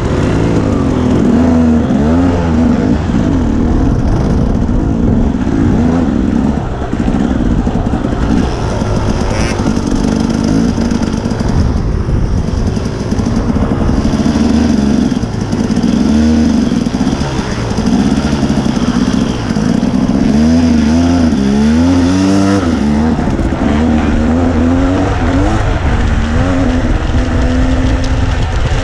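Dirt bike engine running while riding, its revs rising and falling again and again with the throttle, over rushing noise.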